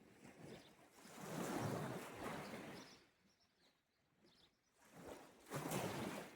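Small sea waves washing onto the shore twice, each a soft swell of surf that rises and falls away.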